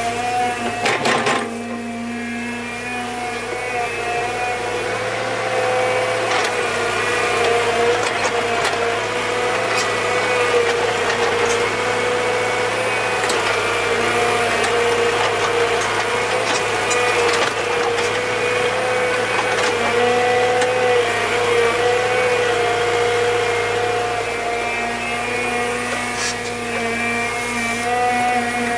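A small motor running steadily at a fixed pitch, with scattered sharp knocks.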